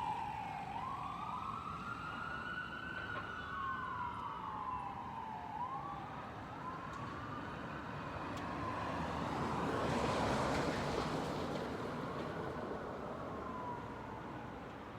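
Fire engine siren wailing, its pitch slowly rising and falling every few seconds and growing fainter as the truck moves away. About two-thirds of the way in, traffic noise swells and fades over it.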